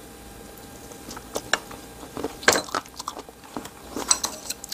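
Close-up eating sounds of a person chewing boiled chicken meat pulled from the bone: irregular wet mouth smacks and clicks, starting about a second in.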